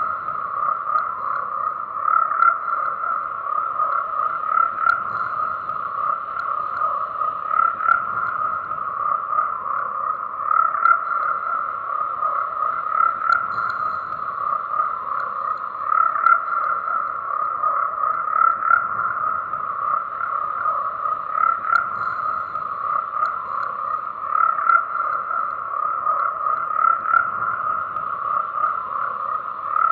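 A dense chorus of croaking frogs, continuous, swelling louder every two to three seconds.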